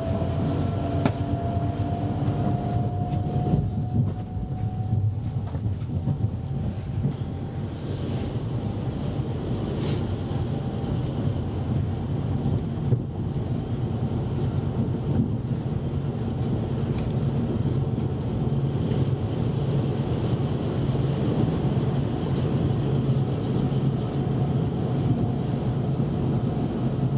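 Interior of a Copenhagen S-tog electric commuter train running along the line: a steady low rumble of wheels and running gear, with a faint whine that rises slowly in pitch over the first several seconds.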